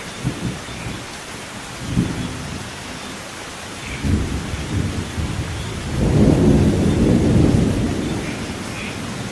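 Steady rain with thunder. There are short low booms near the start and about two seconds in, then a long rolling rumble that builds, is loudest in the second half and dies away near the end.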